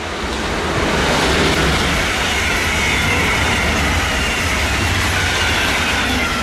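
Electric regional train, a locomotive hauling double-deck coaches, passing at speed: wheel and rail noise swells within the first second, stays loud with a faint high whine, and starts to fade near the end.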